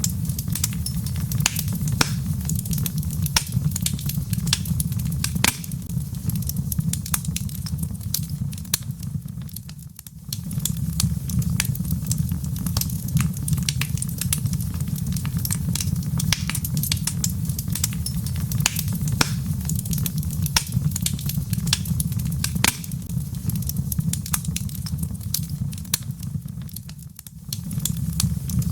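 Wood fire burning in a fireplace, crackling with frequent sharp pops and snaps over a steady low rumble. The rumble dips briefly twice, about a third of the way in and near the end.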